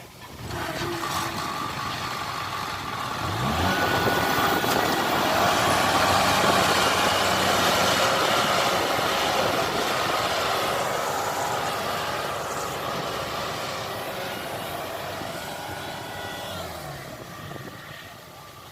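A heavy vehicle's engine passes close by. It swells up, with a brief rise in pitch a few seconds in, then fades away toward the end.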